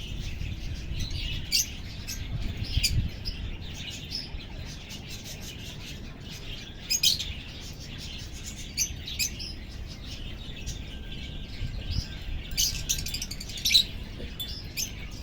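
Alexandrine parakeets giving short, sharp chirps at irregular intervals, some in quick clusters, over a steady low rumble.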